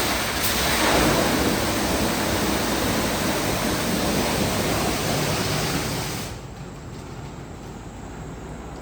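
Christ Vega C170 rollover car wash spraying water onto the car with a steady rushing hiss. The spray cuts off about six seconds in, leaving a quieter hum from the machine.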